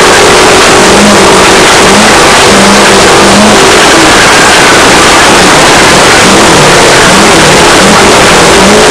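Off-road race car's engine revving hard, its pitch rising and falling repeatedly, under a loud wash of wind and rough-ground noise picked up inside the car.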